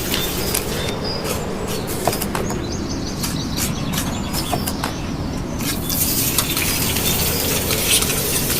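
Kitchen cooking noise: a steady rustling hiss with scattered clicks and taps.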